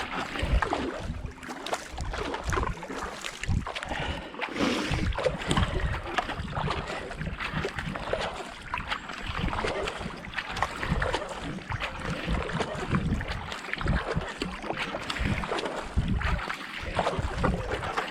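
Racing kayak paddle blades dipping and pulling through canal water in a steady, repeated stroke pattern, with water splashing and rushing past the hull.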